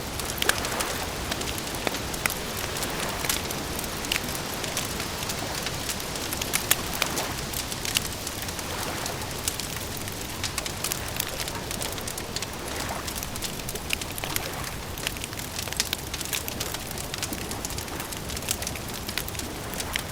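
Campfire crackling: dense, irregular snaps and pops over a steady hiss.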